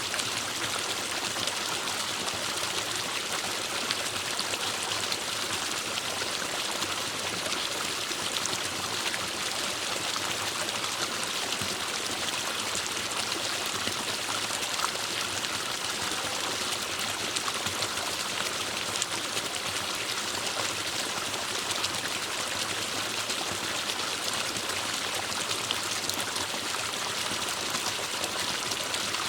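Forest stream flowing steadily over rocks, a continuous rushing and splashing of water.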